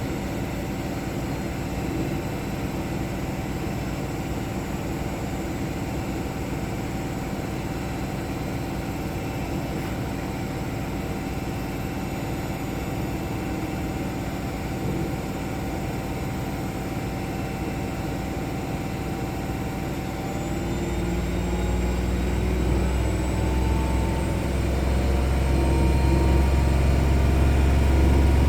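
Two Miele front-loading washing machines, a Vitality W427 and a Novotronic W971, running together in their final spin with a steady motor hum and drum rumble. About two-thirds of the way in, a motor whine rises in pitch and a deep rumble grows louder as a drum speeds up.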